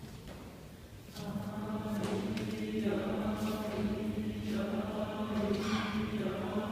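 A cappella choir enters about a second in on a low chanted note held as a steady drone, with a few short breathy hisses above it.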